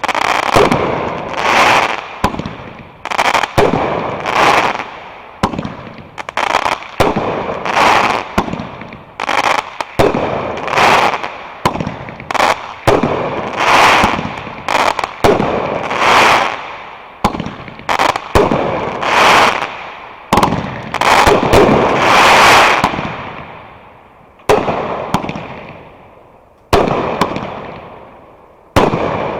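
Fireworks going off in quick succession, each sharp bang followed by a crackling, hissing trail that dies away. The bursts come about one a second and grow sparser near the end.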